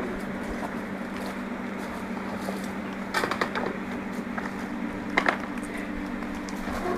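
Steady, low buzzing hum of a honeybee colony, with a few sharp wooden knocks and clatters about three seconds in and again just after five seconds.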